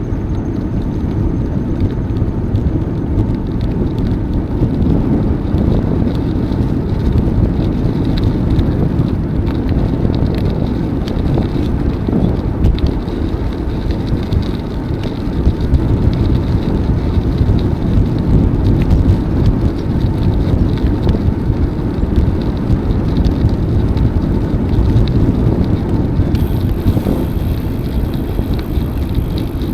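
Steady rushing noise of a moving bicycle ride: wind on the microphone and tyres rolling on the path, strongest in the low end.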